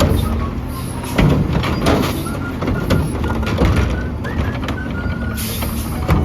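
Garbage truck engine running, with several sharp clanks and bangs of metal handling, and a short burst of air hiss a little after five seconds in.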